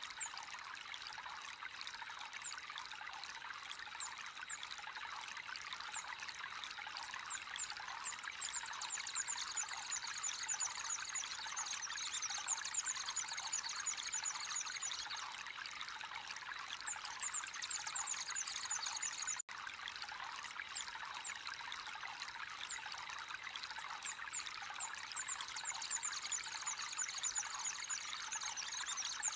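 Water trickling and splashing steadily into a fish pond, with rapid high bird chirping over it that comes and goes. The sound drops out for an instant about two-thirds of the way through.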